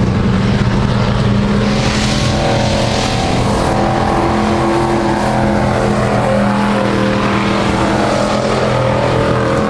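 Several racing trucks' engines running hard together in a race, loud and continuous. The engine pitch rises and falls as the trucks go around the track.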